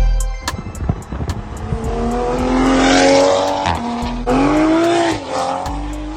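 Toyota Supra A90 with a Tomei dual titanium exhaust accelerating hard. The exhaust note climbs in pitch, breaks at a gear change a little before four seconds in, then climbs again.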